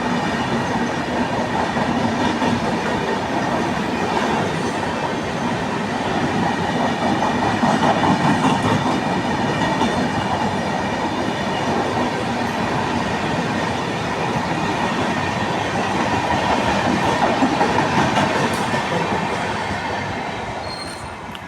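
Indian Railways train running past on the line, its wheels rattling and clattering over the rail joints in a steady loud noise that fades away near the end as it moves off.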